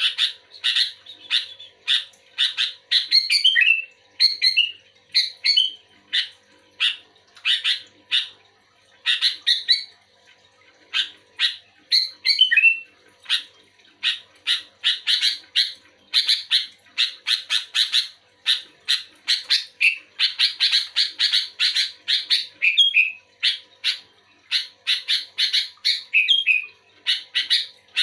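Sooty-headed bulbul (kutilang) calling busily: rapid strings of short, sharp chirps, a few bending in pitch, broken by brief pauses.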